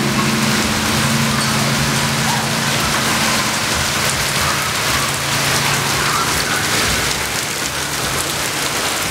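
Very heavy downpour of rain: a dense, steady hiss of rain pounding on surfaces. Under it a low steady hum fades away about two-thirds of the way through.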